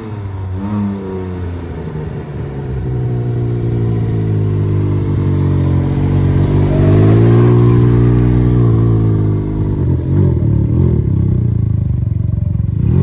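Can-Am Ryker three-wheeler's engine through a modified exhaust with a cleaned-out muffler and a bigger exit port, giving it a deep note. It accelerates, rising in pitch and growing louder to a peak past the middle, then the revs drop and it runs unevenly near the end.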